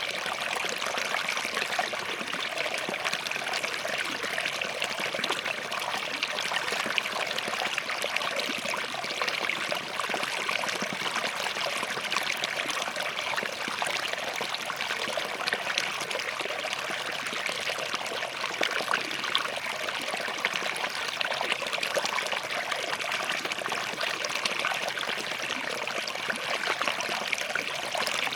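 Small forest stream flowing and trickling over rocks: a steady, unbroken splashing rush.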